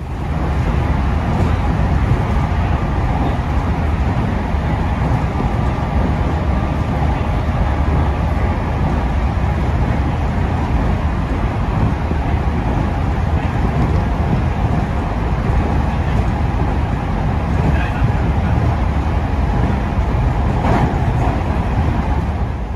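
Electric local train running along the line, heard from inside the leading car: a steady rumble of motors and wheels on the rails.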